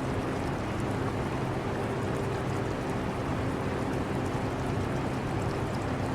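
Portable air conditioner running with a steady hum, mixed with the trickle of aquarium water.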